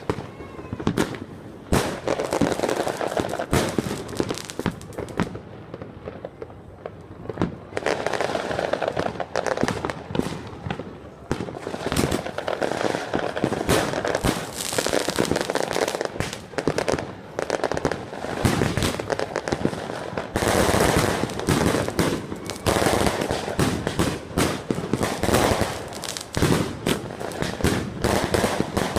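Fireworks going off in a near-continuous string of bangs and crackling, growing denser and louder about two-thirds of the way in.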